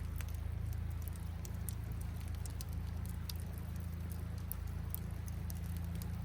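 Campfire crackling, with irregular sharp pops and snaps of burning wood, over a steady low rush of flowing river water.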